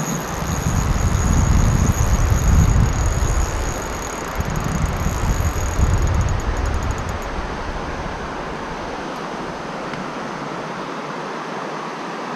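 Steady rush of stream water, with low buffeting of wind on the microphone for the first seven seconds or so.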